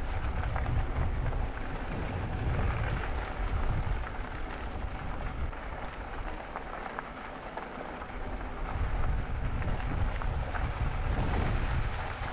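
Wind buffeting the microphone of a camera riding on an e-bike: a deep rumble that swells near the start and again near the end, over a steady rushing hiss.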